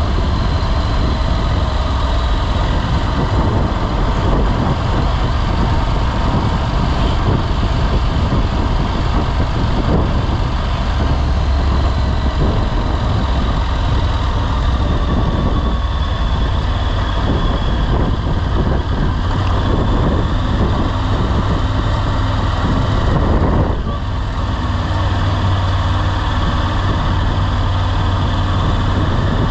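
Motorcycle underway on the road, its engine running under a steady rush of wind and road noise, with a brief dip in level about 24 seconds in.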